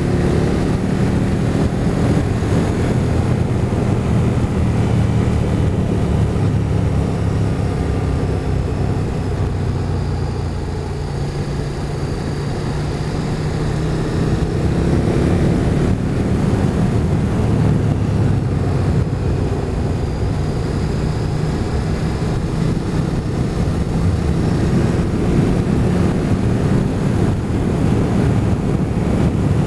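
Motorcycle engine running while riding, its note rising and falling with the throttle, under steady wind noise on the microphone. The engine eases off a little about a third of the way in, then builds again.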